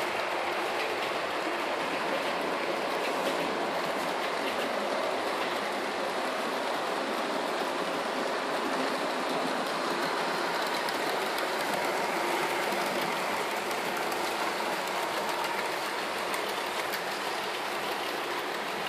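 Model trains running round set track: a steady whirr of small motors and wheels with faint ticking over the rail joints.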